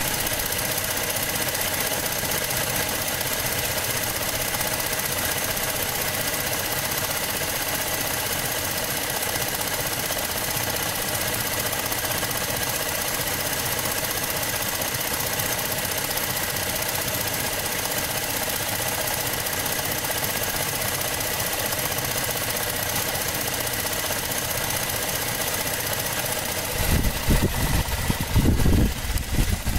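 Cadillac SRX's direct-injection V6 idling steadily, heard close over the open engine bay. Near the end, irregular low rumbling bursts break in over the idle.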